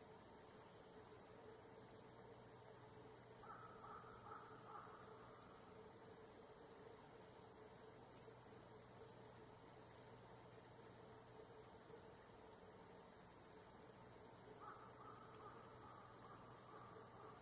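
Higurashi (evening cicadas) calling, their high shrill trills overlapping into a steady chorus, with one call sliding lower in pitch midway. A fainter, lower call comes in twice, about four seconds in and near the end.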